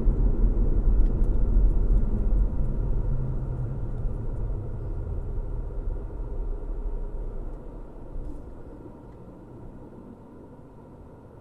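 Car driving: a low, even rumble of road and engine noise that fades steadily over several seconds, settling to a faint hiss near the end.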